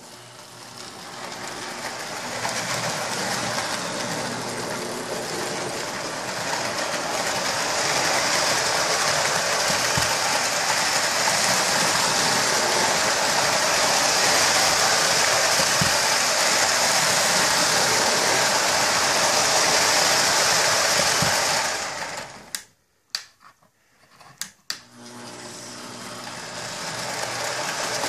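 An O-27 gauge toy train's electric motor and wheels running on the track: a steady mechanical whir that grows louder over the first several seconds and then holds. It cuts off about three-quarters of the way through, a few sharp clicks follow, and then the whir starts again and builds up near the end.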